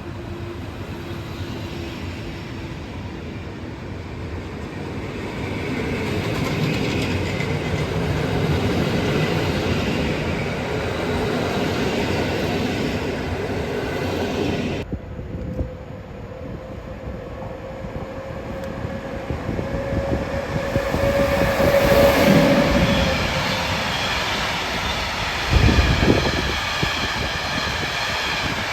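Trains passing on the tracks with a steady wheel rumble. About fifteen seconds in the sound changes abruptly to another train approaching and passing, with a steady whine that peaks and then heavy knocks of wheels over rail joints near the end.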